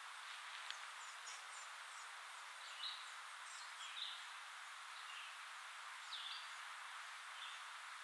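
Steady woodland background hiss with several short, faint bird chirps scattered through it, the clearest about three, four and six seconds in.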